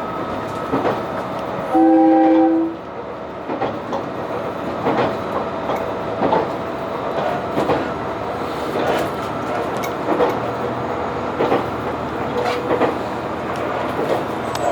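Diesel railcar running along the line, with one short horn blast about two seconds in. Throughout, the wheels click over rail joints roughly every second and a half, over a steady running hum.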